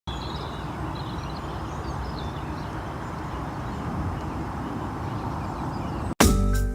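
Outdoor ambience: a steady low rumble with a few faint bird chirps. About six seconds in it cuts out, and loud music with a beat starts abruptly.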